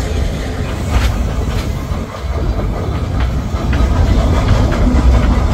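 Narrow-gauge train running along the track: a steady low rumble with irregular clicks and clatter from the wheels on the rails, growing a little louder about two-thirds of the way through.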